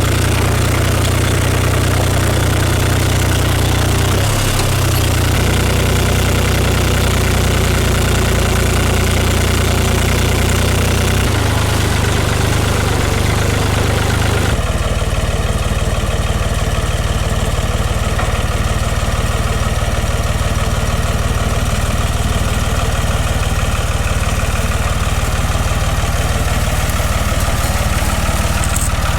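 Oliver farm tractor engine running steadily, its note shifting three times: about four and a half, eleven and fourteen and a half seconds in.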